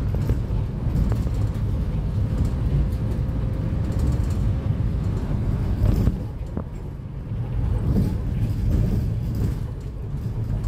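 Cummins ISF3.8 four-cylinder turbodiesel of a Daewoo Lestar minibus running on the road: a steady low diesel drone that eases off briefly about two-thirds of the way in and again near the end.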